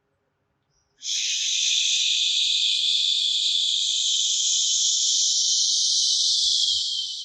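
A long, steady "shhh" breathed out for about six seconds, starting about a second in: the Taoist healing sound for the liver, made as a hissing exhale.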